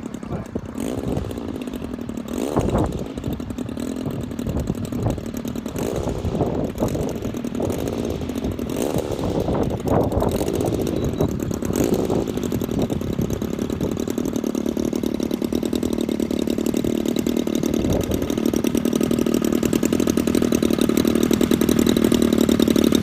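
DLA-64i2 twin-cylinder two-stroke gasoline engine of a large RC model plane, turning a wooden propeller. It runs unevenly for the first dozen seconds, then holds a steady note that grows gradually louder.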